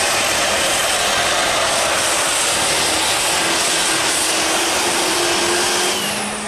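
Turbocharged super stock diesel pulling truck running at full throttle under load, with a loud high turbo whine. About six seconds in the sound drops off and the whine falls in pitch as the throttle is lifted.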